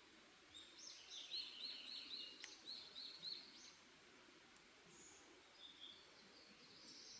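Faint forest birdsong: a songbird sings a quick run of repeated high chirping notes, about five a second, for roughly three seconds. Fainter, scattered calls follow near the end, over a steady low background hiss.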